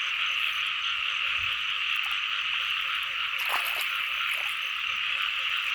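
Dense, steady chorus of many small frogs calling together. One brief sharper sound stands out about three and a half seconds in.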